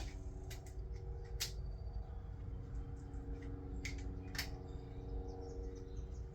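Scattered sharp clicks and clinks of hand tools on the cam cap bolts of a 2JZ cylinder head, two of them louder, about a second and a half in and past four seconds, over a steady low hum.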